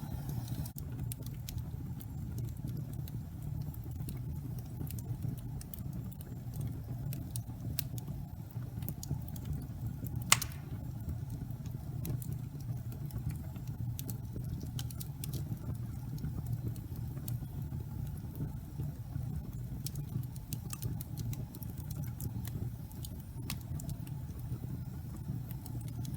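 Fire burning in a fireplace: a steady low rumble with scattered small crackles and one sharp, loud pop about ten seconds in.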